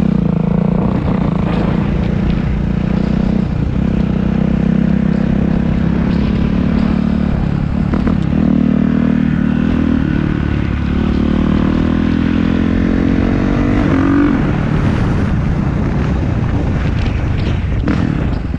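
Dirt bike engine running steadily near idle, the revs climbing gradually about ten seconds in and peaking a few seconds later before settling back.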